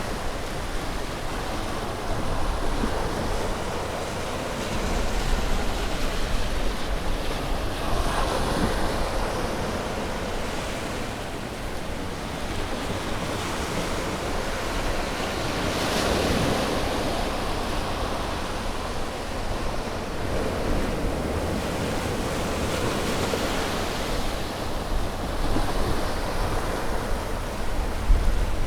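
Ocean waves breaking and washing onto a shore, a steady surf wash that swells as each wave breaks, about every few seconds. Low rumble from wind on the microphone runs under it.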